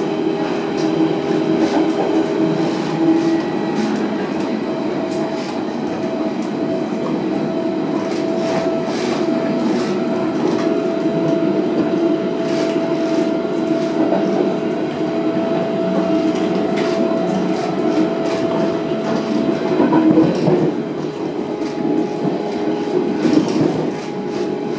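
Berlin S-Bahn class 481 electric multiple unit heard from inside the passenger car while running between stations: a steady rumble of the running gear with a steady whine and irregular clicks of the wheels over the rails. The level rises briefly about twenty seconds in, then settles slightly lower.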